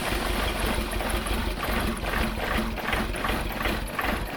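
Chevrolet Tracker engine being started after injector work, running with a low rumble and a regular beat a few times a second.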